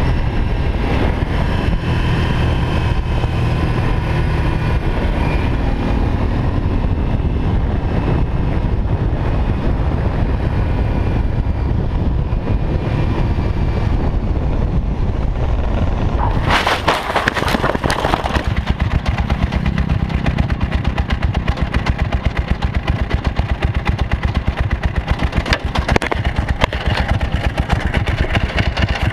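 Motor vehicle, most likely a motorcycle, running on the road with a steady low engine rumble and road noise. About seventeen seconds in there is a loud rushing burst lasting a second or two, then a fast, even pulsing to the end.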